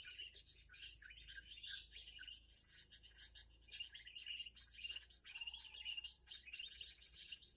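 A dense, fast chorus of small birds chirping, with insects trilling underneath.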